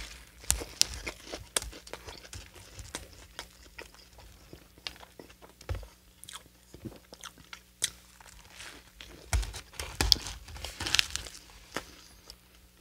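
Close-miked bite into a Hot Cheetos–crusted fried chicken sandwich on a soft bun, then chewing with many small crisp crunches of the coating, louder for a spell about nine to eleven seconds in.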